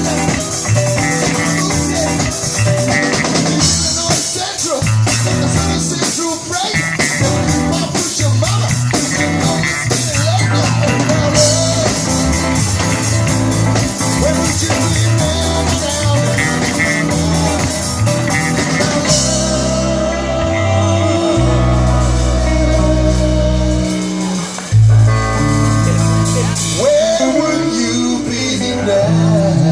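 Live rock band with electric guitar, drum kit and singing, playing a blues-rock groove. About two-thirds of the way through, the band moves into long held low chords, with a sharp accent hit a few seconds later.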